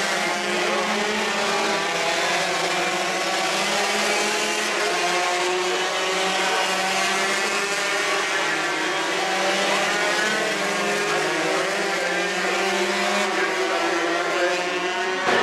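Several 125 cc racing motorcycles running at high revs, their overlapping engine notes rising and falling as they brake and accelerate.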